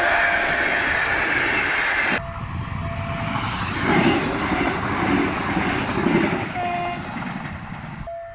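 Passenger trains passing a level crossing close by: wheel and carriage rumble over the rails, with a steady electronic warning tone from the crossing signal underneath. The sound cuts abruptly about two seconds in to an electric multiple unit passing, its rumble swelling in surges.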